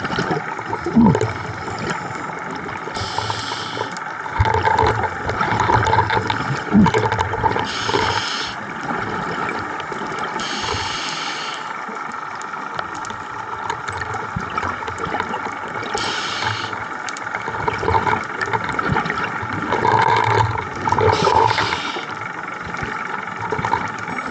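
Scuba diver breathing underwater through a regulator: a short hiss with each inhalation every few seconds, followed by bubbling exhalations, over a steady mechanical hum.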